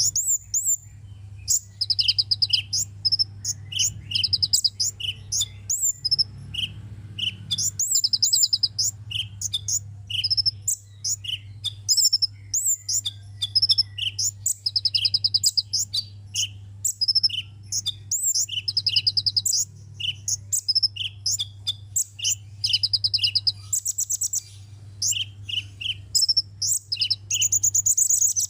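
A sunbird singing: short high chips alternating with fast, buzzy trills, repeated again and again over a steady low hum.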